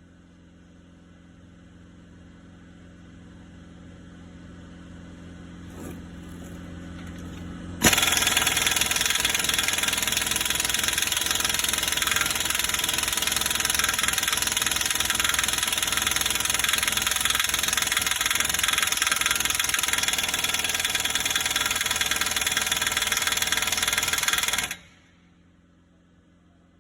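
A steady mechanical hum grows slowly louder for about eight seconds. Then a much louder, hissy, steady machine noise starts suddenly, runs for about seventeen seconds and cuts off abruptly.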